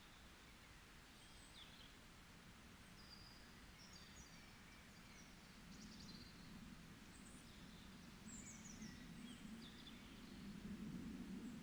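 Faint forest birds giving scattered short, high chirps and calls. Underneath, a low rumble builds in the second half and is loudest near the end.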